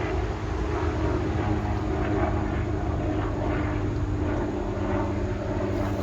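A steady engine-like drone with a constant hum over low rumbling noise, unchanging throughout.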